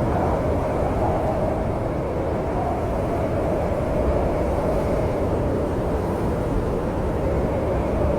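Steady low rumble of snowstorm wind with a faint wavering howl, at an even level throughout.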